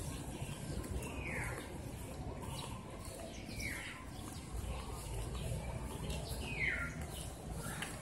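A bird calling: a short, falling note repeated several times, a few seconds apart, over a low steady rumble.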